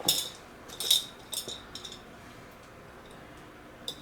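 Handling noise from a leather belt bag being worked by hand: a quick run of short clicks and rustles in the first two seconds, then one more click near the end.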